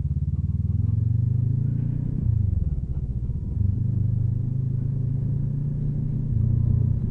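Motorcycle engine running in second gear down a steep hairpin descent, its note rising over the first two seconds, dropping back a moment later, then holding steady at a low throttle.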